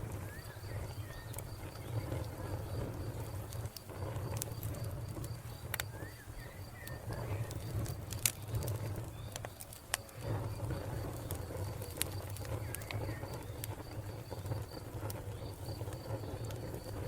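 Wood fire crackling, with scattered sharp pops over a low steady rumble, the loudest pop about halfway through. A cricket chirps in a steady, evenly spaced pulse, and a bird gives a few faint short chirps.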